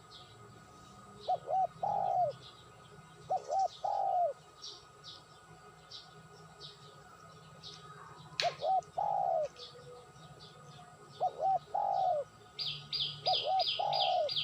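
Birds calling: a low three-part cooing call, two quick notes and a longer falling one, repeated every two to three seconds, over thin high chirps that quicken into a rapid run near the end. A single sharp click comes about eight seconds in.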